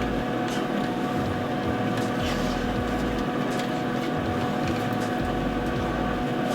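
Steady hum of a running kitchen appliance, with a few faint clicks.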